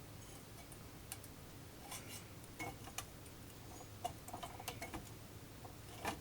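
Irregular small clicks and taps, with a few light clinks about four to five seconds in, over a low steady hum.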